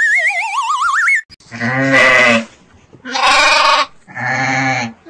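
A wobbling, rising whistle sound effect, then a sheep bleating three times in short, wavering calls.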